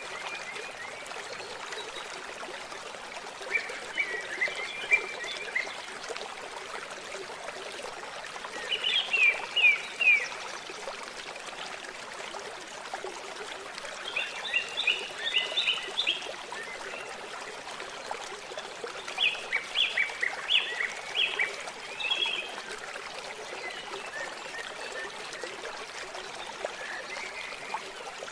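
Water trickling steadily, with a small bird singing over it in four short bursts of quick, high chirping notes spaced a few seconds apart.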